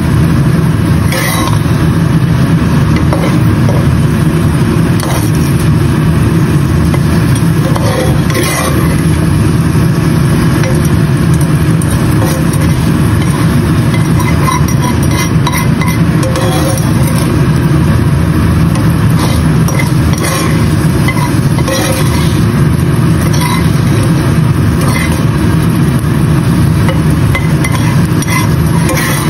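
Sweet potato chunks frying in oil in a nonstick pan, with scattered crackles and the odd scrape of a spatula, over a steady, loud low rumble.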